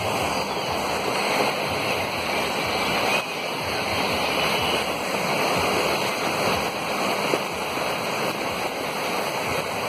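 Heavy monsoon rain pouring down in a steady, dense rush.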